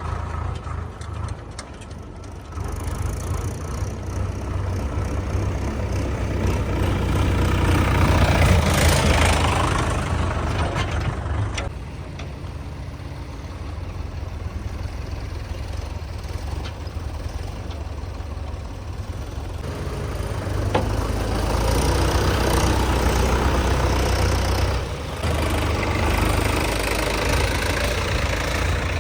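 Diesel tractor engine running. It grows louder about eight seconds in, drops back near twelve seconds, then builds again from about twenty seconds and stays up.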